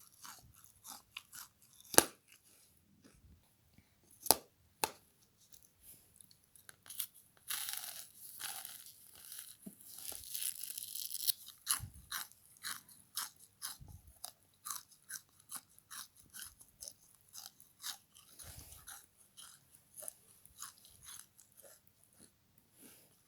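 Crunchy chewing and biting of a frozen bath sponge scrubber: a run of short crunches, with two sharp, loud ones near the start and a stretch of dense crackling a third of the way through.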